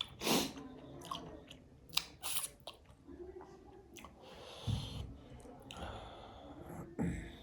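Close-miked chewing and biting of food, with irregular wet smacks and sharp clicks from the mouth.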